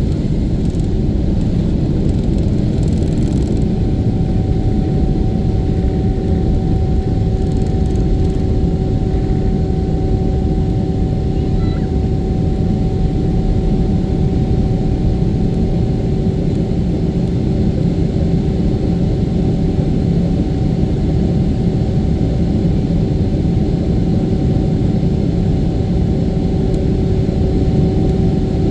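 Jet airliner engines heard from inside the passenger cabin during take-off: a loud, steady rumble with a constant hum on two steady tones.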